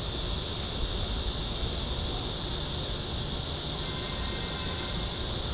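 Steady, unbroken high-pitched drone of a cicada chorus, with a low rumble underneath.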